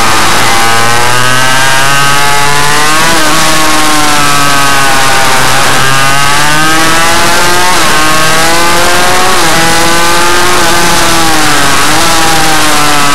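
Suzuki RM85 two-stroke motorcycle engine revving hard, its pitch climbing over a couple of seconds and then dropping, over and over, as the bike accelerates and backs off. Very loud throughout.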